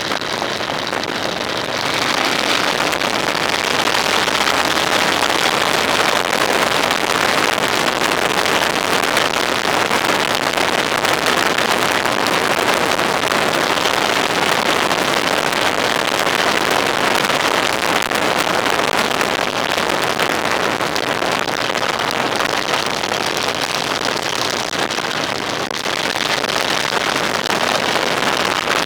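A vehicle driving: steady road and wind noise that gets louder about two seconds in, as speed picks up.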